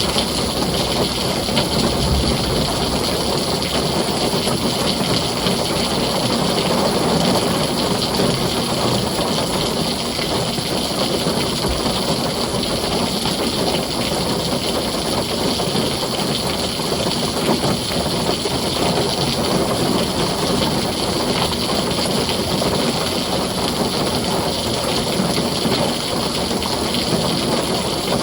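Heavy rain falling steadily on a tin roof, an even rush of noise.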